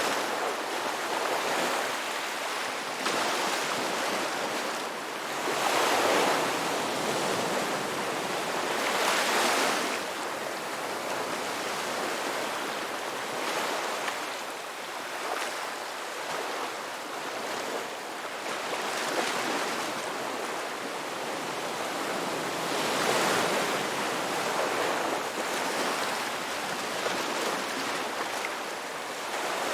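Ocean surf washing onto a beach: a continuous rush of waves that swells louder as individual waves break, a few times over the stretch.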